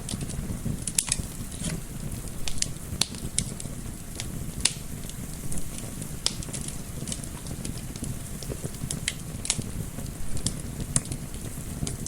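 Wood fire crackling in a fireplace: scattered sharp pops and snaps, a few a second, over a steady low rumble of the flames, with a soft wind sound mixed in.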